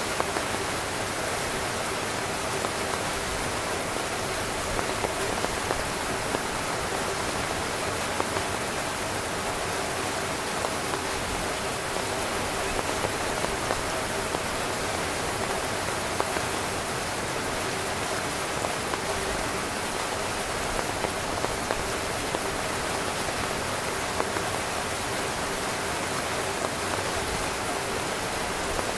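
Heavy rain drumming steadily on a tent's fabric, a dense even hiss with scattered louder drop hits.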